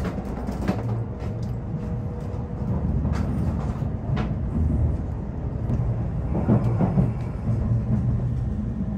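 Inside an N700A Shinkansen moving slowly out of the station: a low, steady rumble of the train running on the rails, with a few sharp clicks and knocks.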